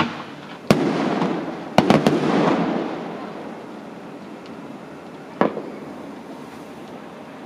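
Fireworks exploding: a few sharp bangs, then a quick cluster of them about two seconds in that trails off into crackling, and one more bang about five and a half seconds in.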